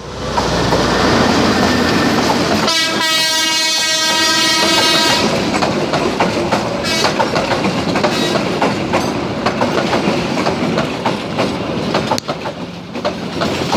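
A diesel locomotive hauling a passenger train passes close by, its engine loud at first; a horn sounds for about two and a half seconds a few seconds in. The coaches then run past with their wheels clacking over the rail joints.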